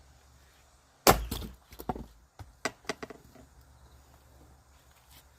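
An axe striking and splitting a log of firewood with one loud sharp blow about a second in, followed by several lighter wooden knocks.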